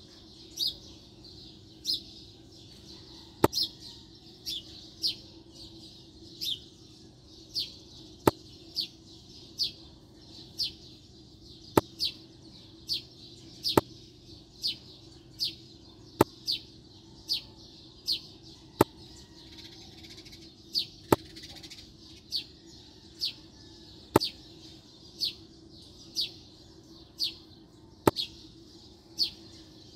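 A bird chirping over and over, short falling chirps about once a second, while small clay bricks give sharp clicks every few seconds as they are set down one at a time. A low steady hum runs underneath.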